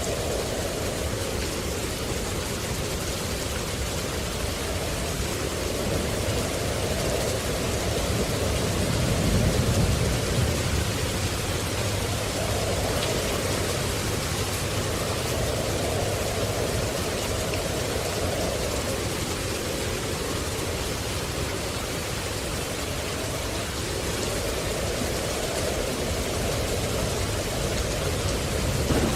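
Steady rain, with a low rumble of thunder about nine seconds in.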